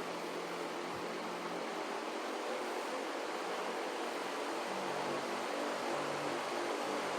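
Loren Sid Tufão 60 cm three-blade wall fan running: a steady rush of air with a faint low motor hum, growing slightly louder toward the end.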